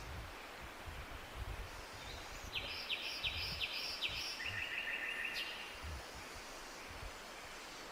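Forest ambience with a steady outdoor hiss and low rumbles. About two and a half seconds in, a bird sings a quick run of about five repeated high notes, then a lower, rapid trill that stops a little after five seconds.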